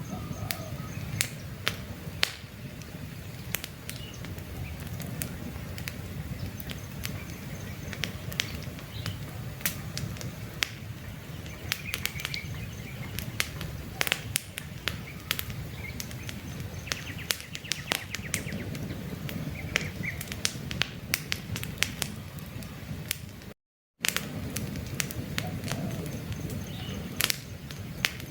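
Wood campfire crackling, with frequent sharp pops over a low steady rush of flames and faint bird chirps in the background. The sound cuts out completely for a split second a little past the three-quarter mark.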